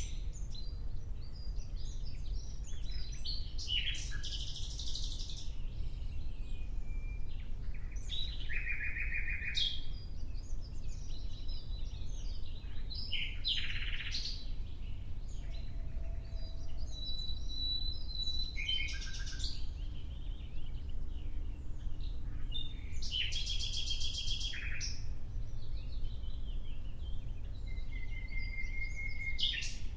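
Nightingale singing in separate phrases a few seconds apart, mixing fast rattling trills with clear whistled notes, over a steady low background rumble.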